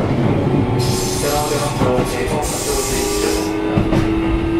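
Keio 7000-series electric train car running, heard from inside: a low rolling rumble with short whining tones in the middle and two brief stretches of high hiss. About three seconds in, a steady whine begins and slowly rises in pitch.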